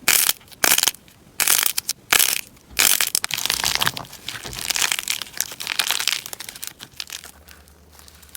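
Slime being pressed and squeezed, crunching: a crisp crunch roughly every half second at first, then a denser run of crackling from about three seconds in that thins out near the end.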